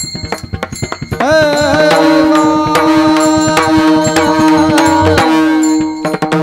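Marathi bhajan music: tabla beats, then from about a second in a long sung note that slides up and is held over the drumming for about four seconds before it drops away.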